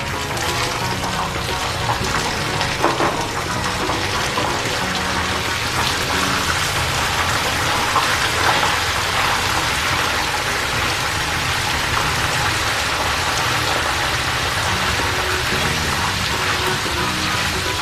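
Peanuts and fresh aromatics (lemongrass, lime leaves, garlic, galangal) sizzling steadily in hot oil in a wok, stirred with a metal spatula that scrapes the pan now and then.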